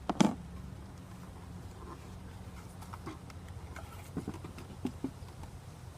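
Wooden beehive parts being handled as a spacer is fitted into its groove: one sharp knock just after the start, then a few light taps and clicks, over a steady low rumble.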